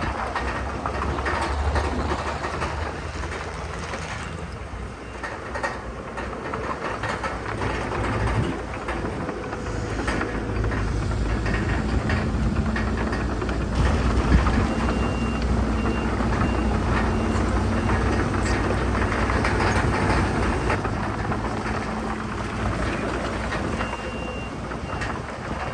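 Heavy earthmoving machinery at work: diesel engines running steadily under load, with scattered knocks and rattles, and a reversing alarm sounding runs of short high beeps about midway and again near the end.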